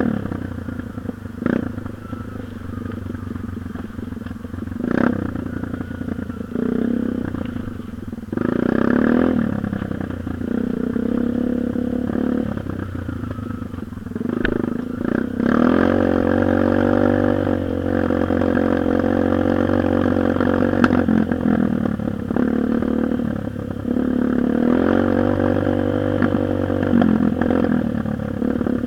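Dirt bike engine running, revving up several times and holding steady higher speeds in between, with a few sharp clicks.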